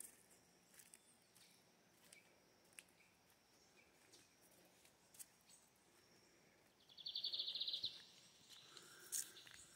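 Near-silent outdoor quiet with a few faint clicks; about seven seconds in, a bird gives a high, rapid trill lasting about a second.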